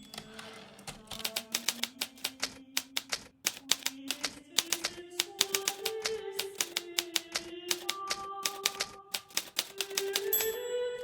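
Hermes Baby portable typewriter being typed on at a steady pace, its keys striking several times a second with a brief pause about three and a half seconds in, over soft background music.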